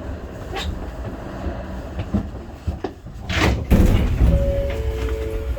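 Shonan Monorail 5000 series train standing at the terminus with a low rumble. About three and a half seconds in comes a sharp hiss of compressed air, then steady electronic chime tones on two held notes.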